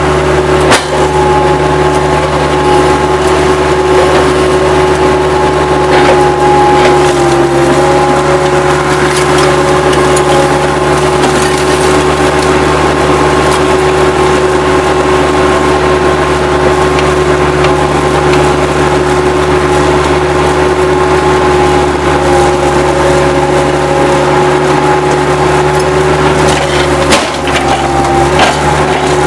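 Bobcat 763 skid-steer loader's engine running steadily at high throttle, its pitch sagging briefly under load about seven seconds in and again near the end. A few sharp knocks come through over the engine.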